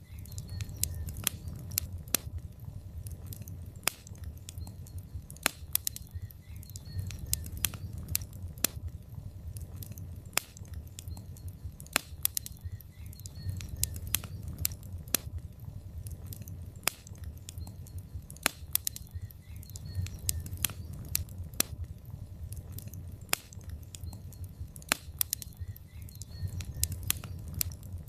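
Wood fire of burning logs in a fireplace crackling, with irregular sharp pops and snaps a few times a second over a steady low rumble of the flames.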